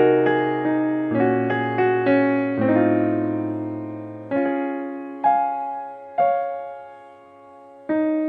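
Background piano music: slow notes and chords, each struck and left to ring away, with a sustained bass note under the first half and a brief lull before the playing resumes near the end.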